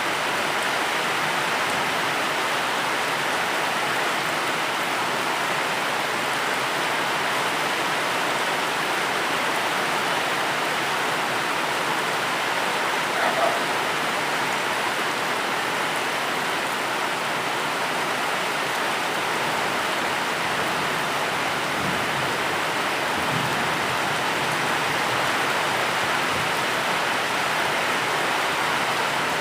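Steady rain falling, a continuous even hiss of many drops, with one brief louder sound about halfway through.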